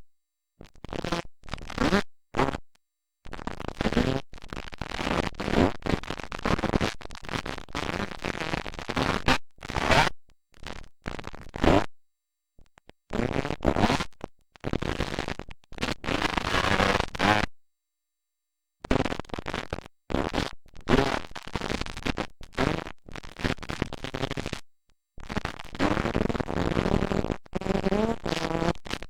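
Motocross dirt bike engines running, recorded harsh and distorted, with the sound cutting out to dead silence many times.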